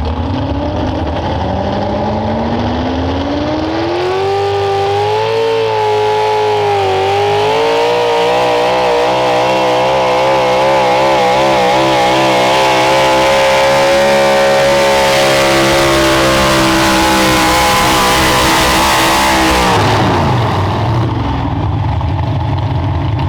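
Pulling vehicle's engine at full throttle on a pull. It climbs from a low idle a second or two in and wavers in pitch for a few seconds. It then holds high, steady revs for about twelve seconds and drops back to idle about twenty seconds in, as the pull ends.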